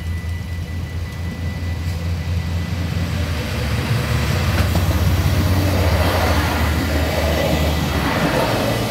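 Alstom Coradia LINT 41 diesel railcar approaching and passing, its diesel engine and wheels on the rails making a steady low rumble that grows louder about halfway through.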